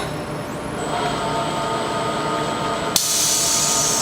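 A vacuum lifter's air-saving vacuum pump starts with a rising whine and then runs on a steady high whine. About three seconds in there is a sudden hiss of air lasting about a second, the little puff of air these pumps give when they top the vacuum back up after it drops a few inches of mercury.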